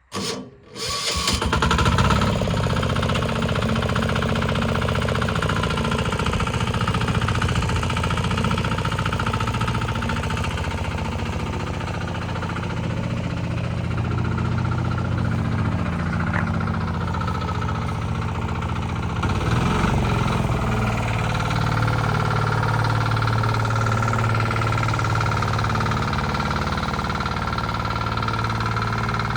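Engine of a Bolat walk-behind tiller (çapa makinesi) running steadily while it pulls a small loaded trailer. The sound comes in suddenly about a second in and holds an even pitch, shifting slightly about two-thirds of the way through.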